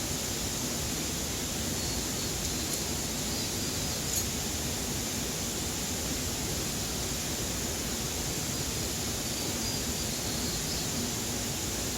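Steady, even rushing noise with faint short high chirps now and then.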